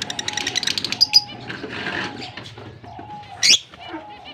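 Fischer's lovebirds chattering: a fast run of short chirps in the first second, then mixed chatter, with one loud shrill call about three and a half seconds in.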